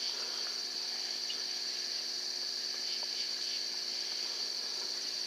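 Steady high-pitched trilling chorus of night insects.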